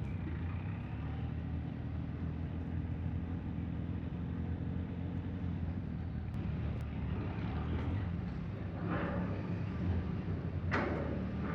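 Vehicle engine running at a steady, even rumble. Near the end a few short, sharper sounds rise over it.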